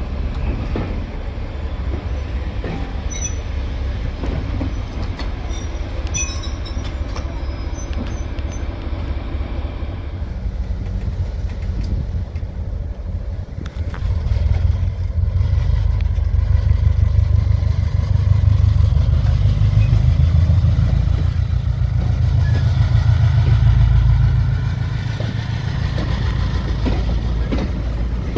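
Passenger train passing: coaches rumbling over the rails, then a diesel locomotive's engine working past, louder from about halfway through, easing again near the end.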